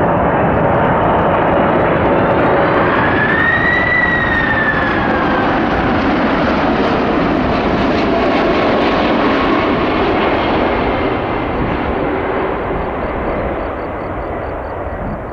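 Boeing 747-400's four jet engines running loud as the airliner passes, with a whining tone that rises and then falls a few seconds in. The noise fades over the last few seconds.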